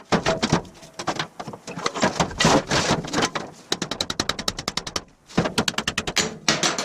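Rapid series of sharp strokes of a hand tool on the rusty metal of an old wood stove, several a second, with a brief pause about five seconds in.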